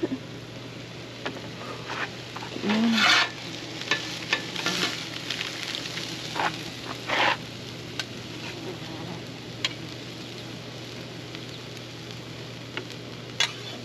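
Food sizzling steadily on a Blackstone flat-top griddle, broken by scattered short clicks and a few louder scrapes from the metal griddle spatulas.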